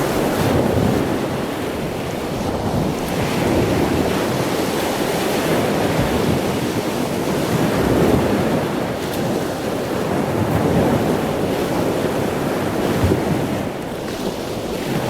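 Wind blowing across the microphone: a steady rushing noise that swells and eases in gusts.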